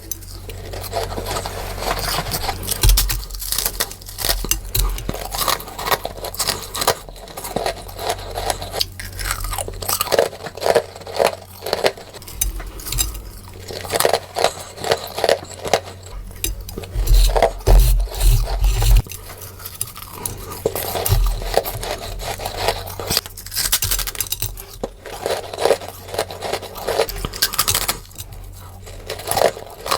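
A person biting into and chewing freezer frost close to the microphone, one crisp crunch after another with scraping crackles between them, sped up.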